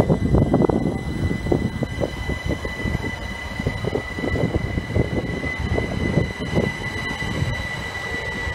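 Electric multiple-unit passenger train running past at close range: wheels clattering irregularly over the rails, most heavily in the first couple of seconds, under a steady high whine.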